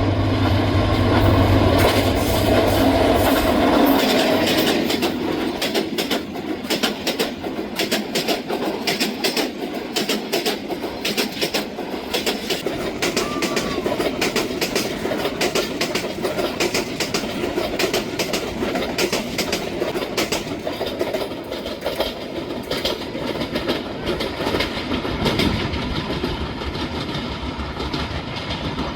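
A PT Inka passenger coach running over worn, uneven track: a steady rolling rumble with a dense run of irregular wheel clacks and knocks, with heavier rumble in the first few seconds.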